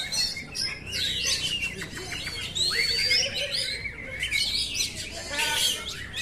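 Oriental magpie-robin (kacer) singing: a continuous, varied run of clear whistles, rising sweeps and quick chirps and trills.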